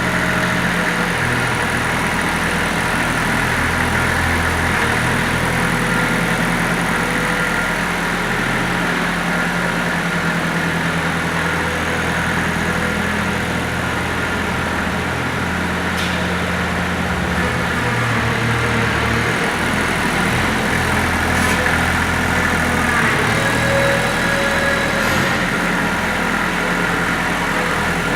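Ford tractor engine running steadily.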